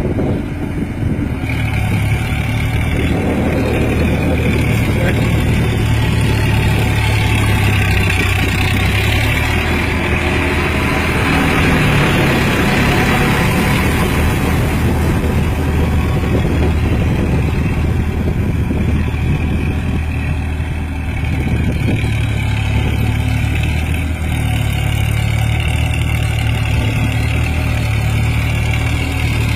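Massey Ferguson 7250 50 hp tractor's diesel engine running steadily while tilling a field. The engine note swells around the middle and eases briefly about twenty seconds in.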